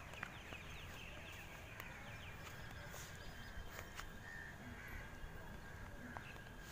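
Birds calling in the background: many short, quick chirps over a faint, steady low rumble.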